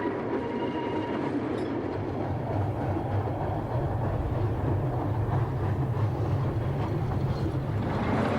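Small 2-foot gauge railway train running with a continuous rumble that grows heavier a few seconds in. A steady high tone stops about a second in.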